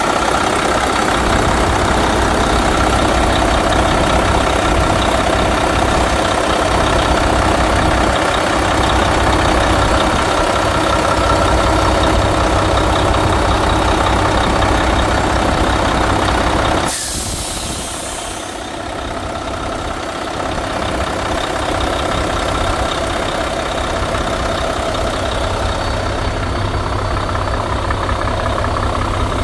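Mack MP8 straight-six diesel engine of a dump truck idling steadily. About two-thirds of the way through comes a short, sharp hiss of released air from the air-brake system, after which the engine runs a little quieter.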